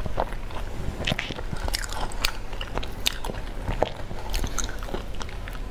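A person chewing food close to a clip-on microphone, with irregular wet mouth clicks and soft crunches.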